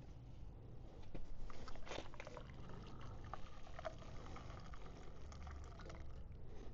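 Liquid faintly pouring and dripping, with scattered small clicks.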